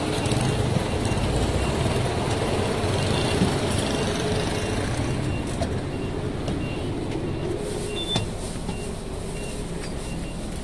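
Steady vehicle rumble, with a faint high-pitched beep repeating at even intervals.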